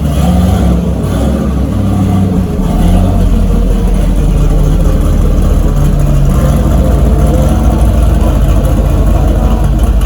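Car engine running, a loud, steady low rumble that grows stronger and deeper about two and a half seconds in.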